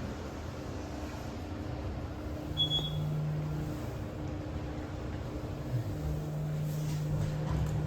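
2021 Otis Gen2 traction elevator car in travel: a steady low hum inside the cab, growing a little stronger about two and a half seconds in, with a brief high beep at about the same point.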